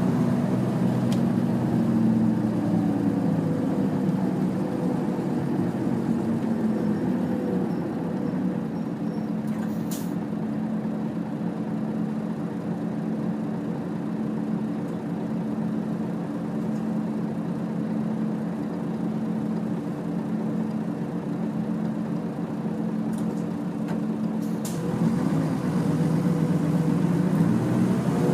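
Nissan Diesel UA city bus (KL-UA452KAN) heard from inside the cabin, its diesel engine running steadily under way, then climbing in pitch and loudness as the bus accelerates near the end. Two brief high clicks break in, one partway through and one shortly before the engine picks up.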